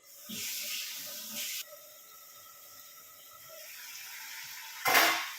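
Chicken pieces sizzling in mustard oil in the pan as the gravy dries down: a loud hiss that comes in suddenly at the start, then a steadier sizzle that slowly grows, with a short loud noise near the end.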